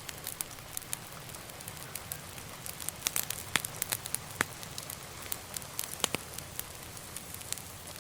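Wood fire crackling in a fireplace: a steady low hiss of burning with many sharp crackles and pops, busiest a few seconds in.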